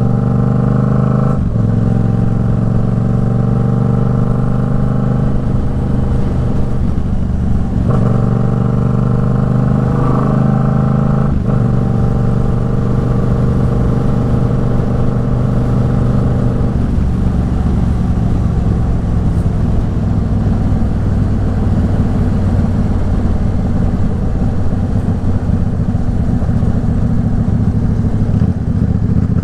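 Yamaha MT-07's parallel-twin engine through an aftermarket Arashi exhaust, ridden: the engine note climbs slowly as it pulls, with short breaks at gear changes about 1.5, 8 and 11.5 seconds in. From about 17 seconds on it runs at lower revs with a rougher, less even note.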